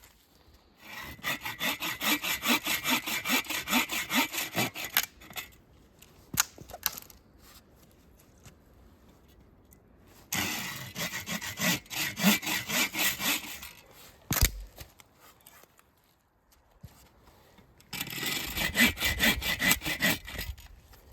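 A hand saw cutting through wood, likely firewood, in quick back-and-forth strokes. The sawing comes in three bouts with short pauses between them, and a single low thud falls in the second pause.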